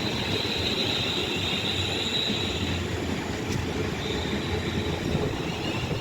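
Two coupled Class 350 Desiro electric multiple units running along the platform with a steady rumble. A high, thin whine sounds over it, breaking off about halfway through and then coming back.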